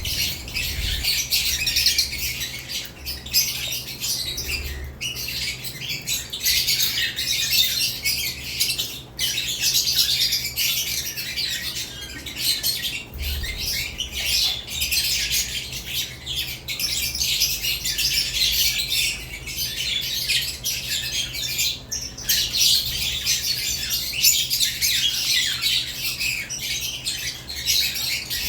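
A cage of lovebirds chattering and squawking without pause: many shrill calls overlapping, with no gaps.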